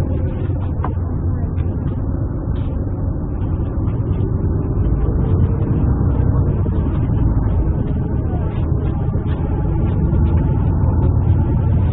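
Steady low rumble of motor traffic, with a faint engine tone drifting slightly in pitch over it.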